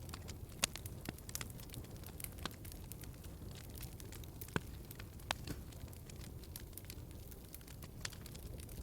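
Log fire in a fireplace crackling: irregular sharp pops and snaps over a steady low rumble of flames, with a few louder pops about half a second in and again about four and a half seconds in.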